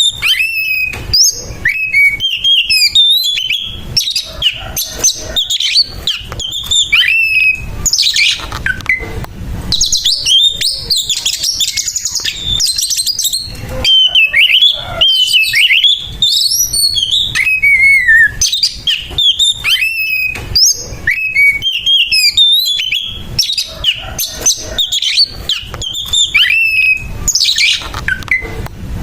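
Oriental magpie-robin (kacer) singing a fast, unbroken song of whistled slurs and trills, broken by harsh, rasping phrases. This is the aggressive 'fighting' song (kacer tarung) that a male gives when worked up against a rival.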